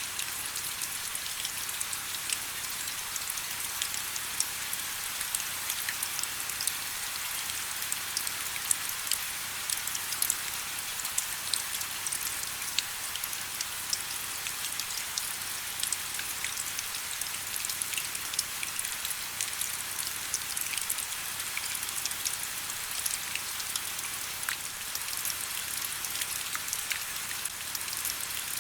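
Steady rain falling, a continuous light hiss with many small drop ticks and patters scattered through it.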